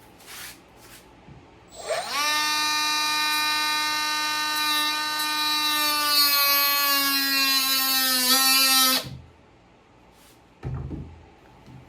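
Small electric power tool spinning up to a steady high whine about two seconds in. Its pitch sags and wavers as it cuts a small piece of wood, and it is switched off about nine seconds in, followed by a couple of light knocks.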